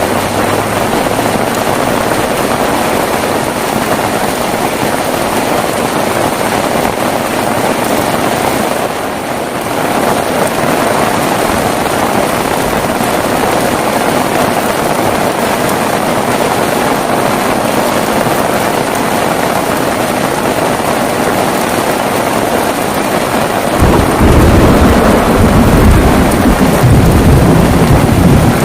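Heavy rain falling steadily. About 24 seconds in, a deep rumble of thunder sets in and continues.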